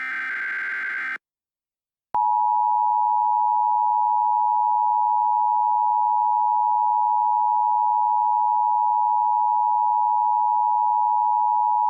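Emergency Alert System SAME header data burst, a harsh buzzy digital squawk, cutting off about a second in. After a short gap, the steady two-tone EAS attention signal starts about two seconds in and holds unbroken for about ten seconds, announcing the alert that follows.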